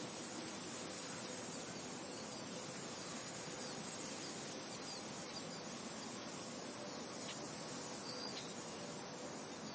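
Steady wind noise: an even hiss, brightest in the highs, with a few faint short chirps about halfway through.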